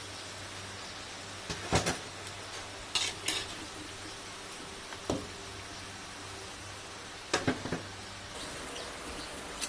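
Food sizzling in a pan over a steady hiss, with a metal utensil clanking against the pan about six times while stirring.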